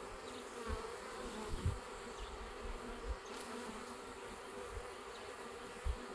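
Honeybees buzzing in flight around their hive, a steady hum, with a few soft low thumps.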